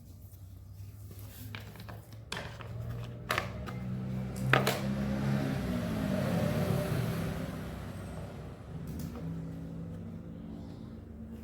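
Yamaha RayZR scooter's single-cylinder engine running, revved up about three seconds in and easing back down to a steady idle a few seconds later, with a few sharp clicks as the revs rise.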